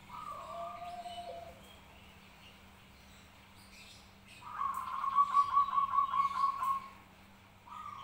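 A small bird calling: a couple of short whistled notes, then a loud, rapid trill lasting about two seconds midway, and another short note at the end.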